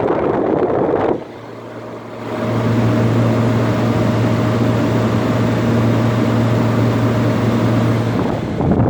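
Window air conditioner running: a steady low hum over a rush of blowing air. It starts about a second in and stops about eight seconds in, with another rushing noise before and after it.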